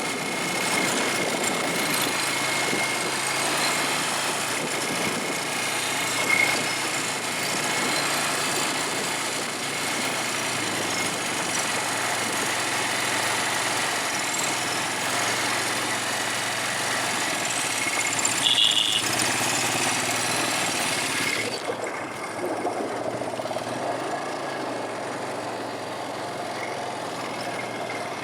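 ATV (quad bike) engine running during a ride, a steady engine drone with wind and ride noise over it. About three-quarters of the way through the hiss thins out and the sound turns more muffled.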